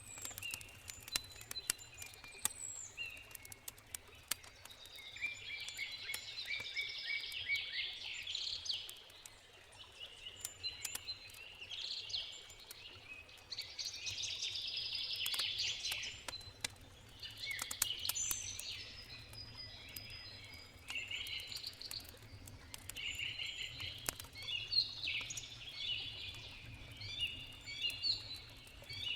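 Birds singing repeatedly over a campfire's scattered sharp crackles and pops, with a steady low rush of a river underneath.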